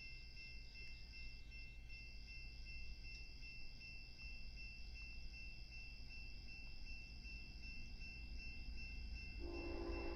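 Faint outdoor ambience of steady insect chirring and high ringing tones over a low rumble. Near the end, a loud chord of steady pitched tones starts: an approaching train's horn.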